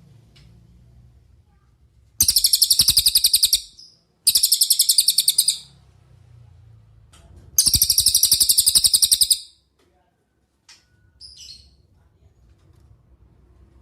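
Cililin bird singing three loud, rapid, very high trills of about a second and a half each, followed a little later by a couple of short, faint notes.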